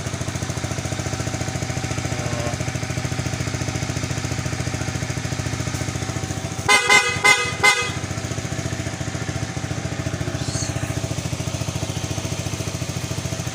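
Honda RS150's single-cylinder four-stroke engine idling steadily, running properly on a newly fitted spark plug. About seven seconds in, a horn gives a quick series of short toots.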